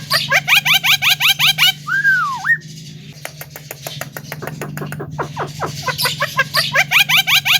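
Javan myna singing: a quick run of about a dozen sweeping chattering notes ending in a single slurred whistle, the same phrase given twice, about five seconds apart. A steady low hum runs underneath.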